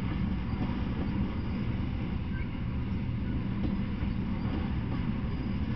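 Freight train of tank cars rolling past, a steady low rumble of wheels on the rails.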